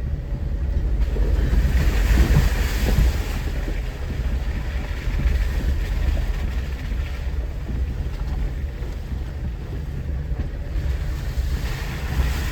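Off-road vehicle driving slowly along a rocky mountain trail: a steady low rumble of engine and tyres, with wind buffeting the microphone. The rushing is loudest a couple of seconds in.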